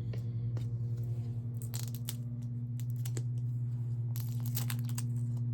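Plastic blind-bag wrapping being picked at and torn, with scattered crinkles and crackles over a steady low hum.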